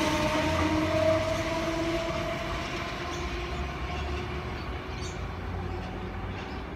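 A V-set double-deck electric intercity train running away down the line, its whine in two tones rising gently in pitch over a low rumble. The sound fades steadily as it recedes.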